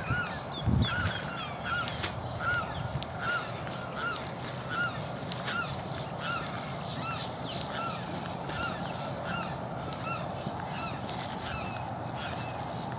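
A bird calling in a long series of short honking notes, about two or three a second, fading out near the end. A single low thump about a second in.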